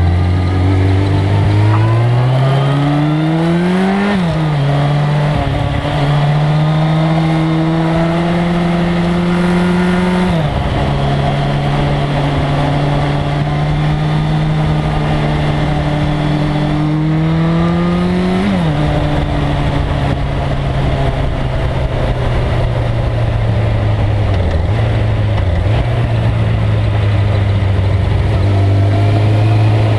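1997 Suzuki GSX-R1100's inline-four engine accelerating hard, its pitch climbing through the gears with sharp drops at upshifts about 4 and 10 seconds in. It climbs again and falls away sharply around 18 seconds, then runs steadily at a lower pitch.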